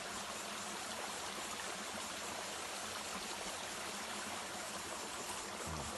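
Small waterfall cascading over rock: a steady, even rush of running water.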